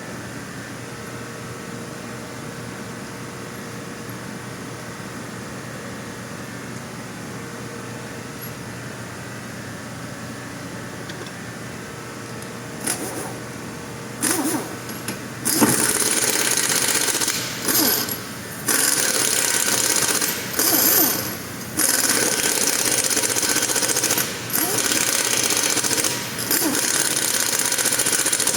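A steady low workshop hum, then from about halfway in a loud power tool running in repeated bursts of one to three seconds with short pauses between them.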